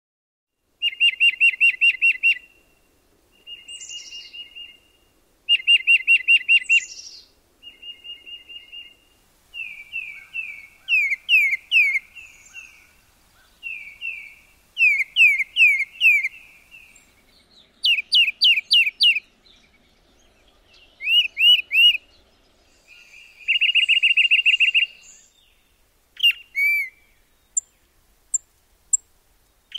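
Tufted titmouse singing: a string of clear whistled phrases a second or two apart, some rapid runs of repeated notes and others slower down-slurred whistles. A few thin, very high notes come near the end.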